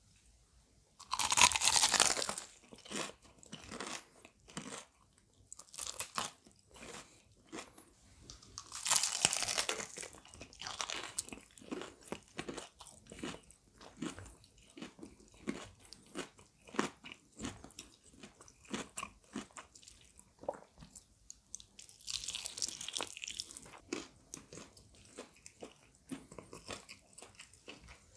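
Crispy battered and breadcrumbed fried chicken legs being bitten and chewed close to the microphone. There are three loud crunching bites, about a second in, around nine seconds and around twenty-two seconds, with steady crunchy chewing between them.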